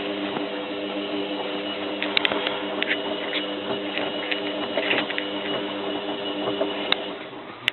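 Zanussi FLA1002W washing machine's motor turning the drum during the wash tumble with a duvet inside, a steady pitched hum with occasional sharp clicks, winding down near the end as the drum pauses.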